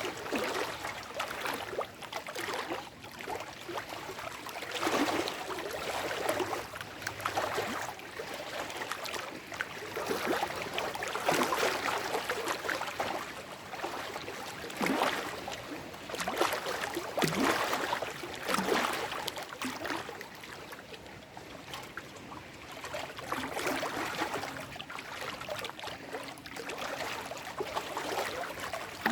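Small lake waves washing and lapping over shoreline rocks, in irregular splashing surges every second or two.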